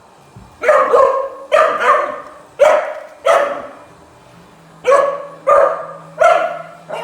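A dog barking repeatedly and loudly at a robot vacuum, about ten sharp barks at one or two a second, with a pause of about a second and a half near the middle.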